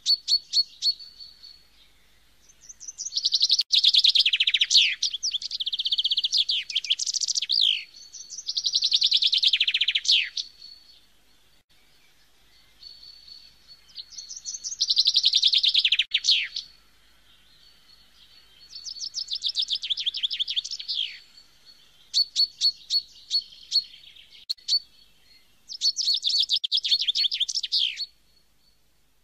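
A bird singing long phrases of rapid, repeated notes and trills, about eight phrases separated by short pauses, over a faint steady high tone.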